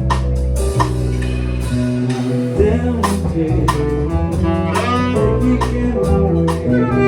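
An instrumental jazz passage between sung lines: a plucked guitar line over bass and drums, with regular cymbal strokes.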